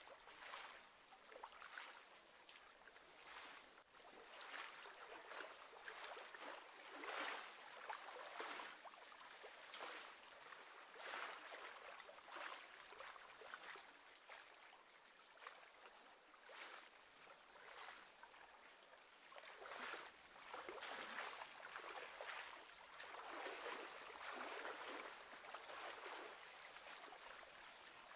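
Faint lapping of small wind-driven waves on choppy lake water, coming in irregular washes a second or two apart.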